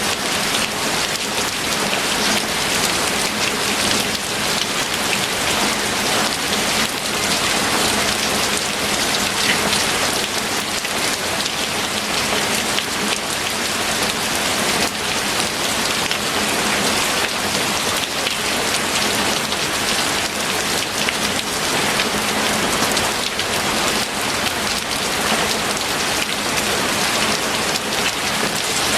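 Steady, heavy rain falling on a surface, with the dense patter of many individual drops.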